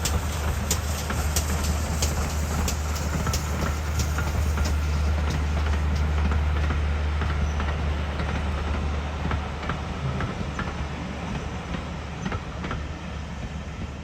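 A train hauled by GWR pannier tank 7714 running past, with a steady low rumble and wheels clicking over the rail joints. It fades away over the last few seconds as it moves off.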